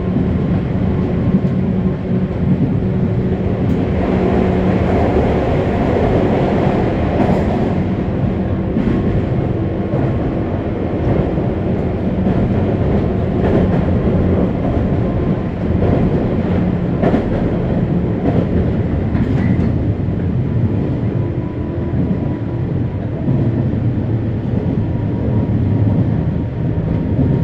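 A 201 series electric commuter train running on the line, heard from inside a passenger car. There is a steady rumble of wheels on rail with the hum of the chopper-controlled traction motors and gearing, and scattered clacks as the wheels pass rail joints.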